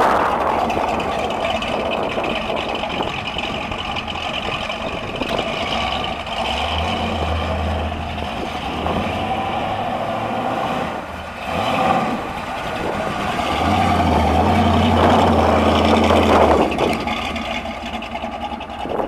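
The 1970 AMC AMX's 401 cubic-inch V8 running, its note swelling under throttle twice, about a third of the way in and again later.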